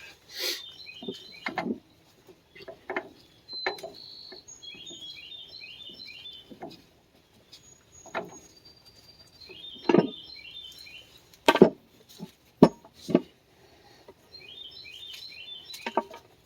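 A small songbird calls a quick run of short high notes several times over. Scattered sharp knocks and clinks of hand-tool work sound in between, the loudest a cluster about two-thirds of the way through.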